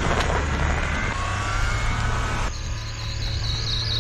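Kei mini truck's small engine running as it drives, with a faint rising whine. About two and a half seconds in the sound changes abruptly to a steadier engine hum with a high, steady buzz over it.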